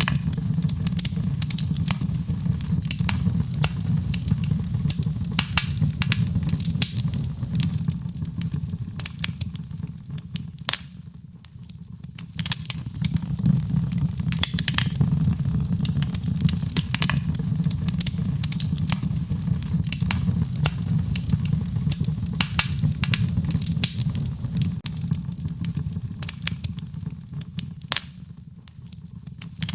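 Wood fire in a fireplace crackling, with frequent sharp pops over a steady low rumble of the flames. The sound dips and softens briefly twice, about a third of the way in and again near the end.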